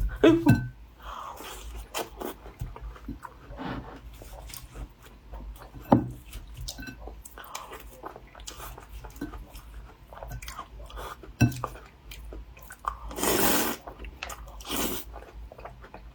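A person biting into and chewing a layered pastry close to the microphone, with sharp bites and crunches scattered through and a longer, louder noisy stretch near the end.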